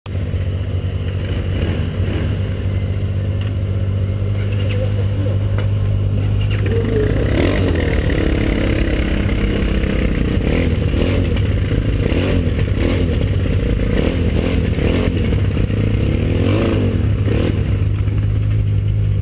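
Motorcycle engine running steadily, heard from on the bike itself. About seven seconds in, a wavering engine note that rises and falls joins it.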